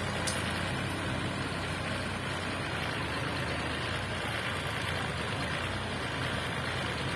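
Mansan backhoe's engine running steadily with an even hum.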